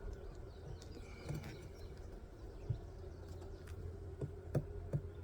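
Honeybees humming steadily around an open hive, with a few short knocks as hive boxes and frames are handled.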